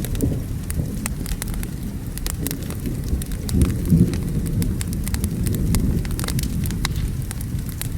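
Crackling wood fire layered with a thunderstorm: low rolling thunder rumbles throughout, swelling about four seconds in, under sharp, irregular crackles and pops from the burning wood, with rain falling.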